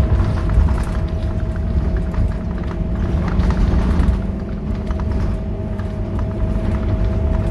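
Scania K230UB city bus's diesel engine running, a steady low rumble with a steady whine above it and light rattles throughout.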